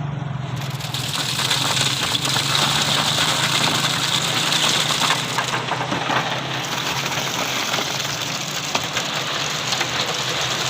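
Engine running steadily with a low hum, joined about a second in by a loud rushing, grinding noise that stays on.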